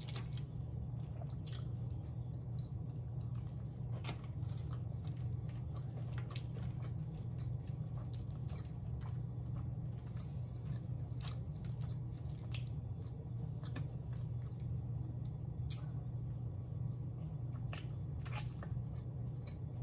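Close-up chewing and wet mouth clicks of someone eating soft garlic naan dipped in saag paneer, with scattered sharp clicks throughout, over a steady low hum.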